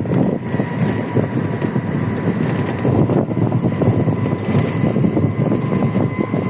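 Small electric sightseeing bus driving along: a steady rush of road and wind noise, with a thin steady whine over it.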